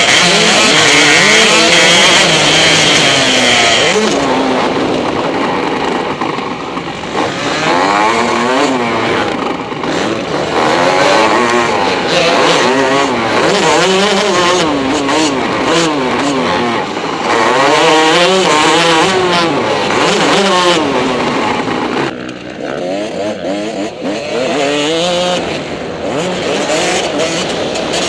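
Motocross dirt bike engine revving hard, its pitch climbing and dropping again and again as the throttle is opened and closed. A loud hiss sits over the engine for the first four seconds.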